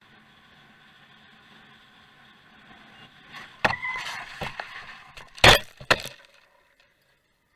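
Road collision: noise builds, then several sharp impacts with crunching and breaking, the loudest about five and a half seconds in and another a moment later, before the sound cuts off abruptly.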